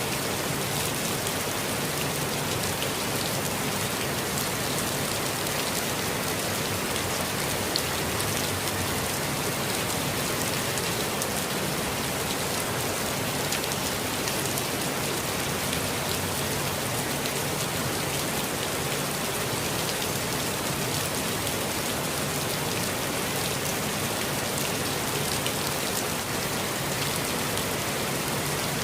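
Steady rainfall, an even, unbroken hiss of many drops with no change in strength.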